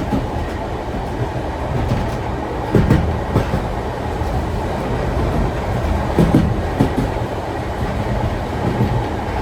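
Heritage steam-train carriage rolling along the track: a steady rumble, with a short group of wheel knocks over the rail joints about every three and a half seconds (clickety-clack).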